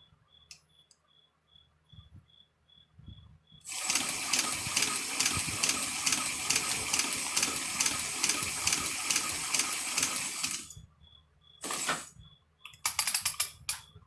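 Hand-cranked Chinese shoe patcher (manual leather sewing machine) running fast with a dense, rhythmic clatter for about seven seconds, then stopping. After that comes one short burst, then a quick run of clicks near the end.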